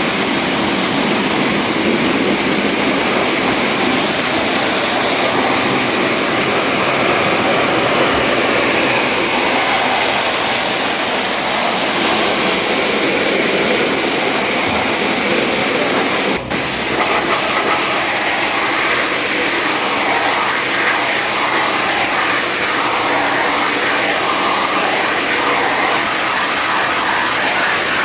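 Loud, steady rushing hiss with no clear pitch, cut off for a moment about sixteen seconds in and then resuming.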